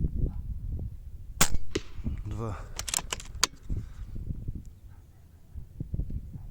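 A single shot from a moderated 6.35 mm PCP air rifle about one and a half seconds in, followed a second or so later by a few sharp clicks. Strong wind rumbles on the microphone throughout.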